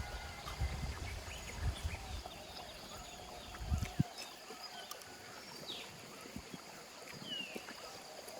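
Outdoor nature ambience with a few short falling bird chirps and a faint steady high tone. A low rumble fills the first four seconds and cuts off suddenly.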